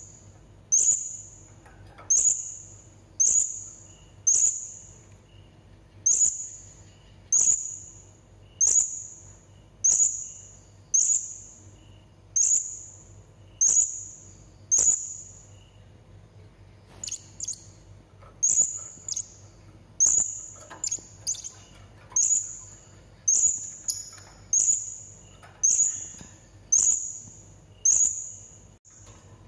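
Serindit (hanging parrot) giving short, sharp, high-pitched call notes, repeated about once every second or so; after a brief pause around the middle the notes come quicker and more irregularly, some in close pairs.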